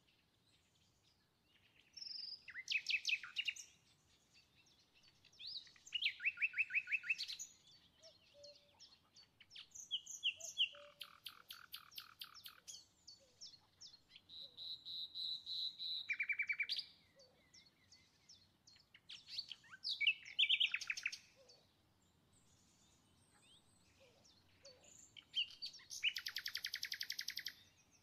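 A small songbird singing: bursts of chirps and fast trills, in about six phrases with short pauses between.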